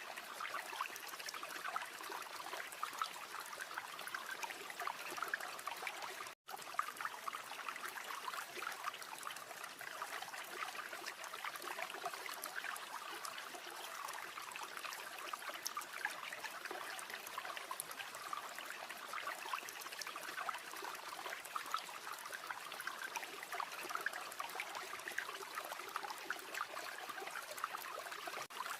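River water flowing and babbling steadily, with one split-second dropout to silence about six seconds in.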